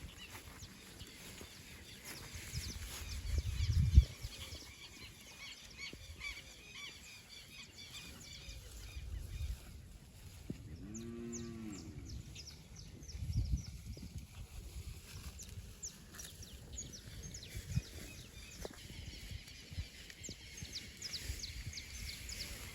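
A cow moos once near the middle, a single call of about a second that rises and falls in pitch. A sharp low thump comes about four seconds in, over low rumbling, and short high chirps run throughout.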